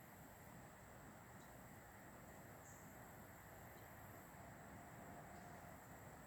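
Faint outdoor ambience of insects, a steady high-pitched drone that does not change.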